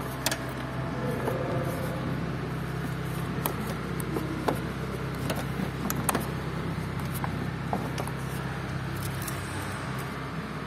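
Scattered light clicks and small knocks of hand work on the fasteners and plastic parts of a heater blower housing, over a steady low hum.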